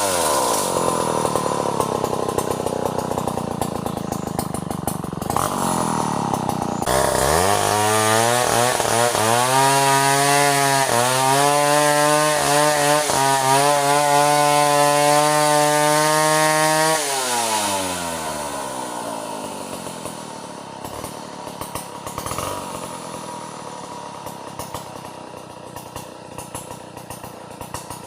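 Two-stroke chainsaw felling a bintangor tree: the engine drops back toward idle, is throttled up again about seven seconds in and holds high revs while cutting for about ten seconds, then falls back to idle and grows quieter.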